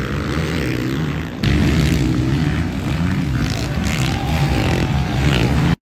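Motocross bikes' engines racing on the track, their pitch rising and falling with the throttle. The sound jumps louder about a second and a half in.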